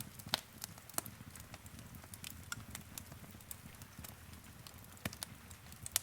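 Wood fire in a fireplace crackling, with irregular sharp pops and snaps over the low steady rumble of the flames.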